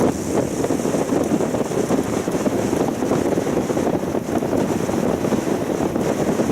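Strong mountain wind buffeting the camera microphone: a loud, steady rumble.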